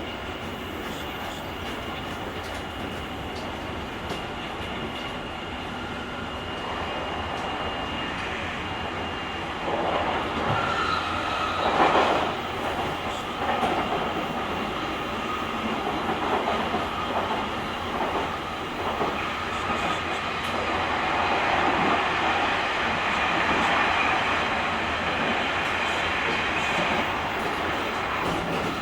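JR Kyushu 883-series electric train running at speed, heard from inside the car's vestibule: steady wheel and rail noise with clatter over the track. About ten seconds in it grows louder, with a sharp peak about two seconds later, and it runs louder again in the latter part.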